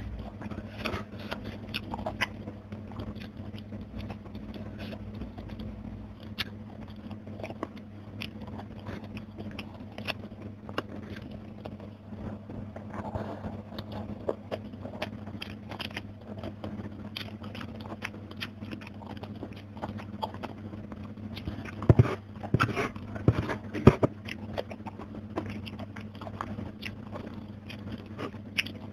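Close-up chewing and crunching of crispy fried fish, with small wet mouth clicks and fingers picking at the food, over a faint steady hum. About 22 to 24 seconds in comes a run of louder, sharper crunches.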